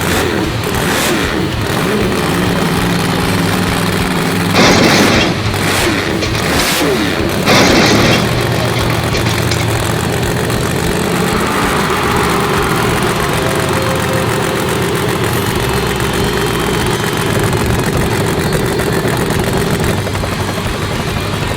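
Monster truck engine sound effects, running steadily with changes in pitch as it revs. Two short, loud rushing bursts come about five and eight seconds in.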